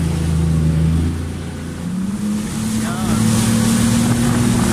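Jet ski engine running, easing off briefly about one and a half seconds in and then picking up to a steady higher pitch, with the hiss of water spray over it.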